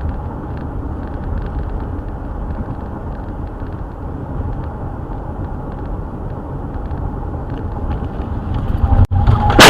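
Steady road and engine noise inside a moving car, heaviest in the low rumble. Just after nine seconds in it breaks off for an instant and comes back louder, with a sudden loud burst near the end.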